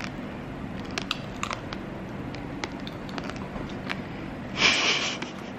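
Close-up chewing of a brown-sugar-coated candied strawberry (tanghulu), with scattered sharp crunching clicks from the sugar shell. A short, louder hiss of air comes a little before the end.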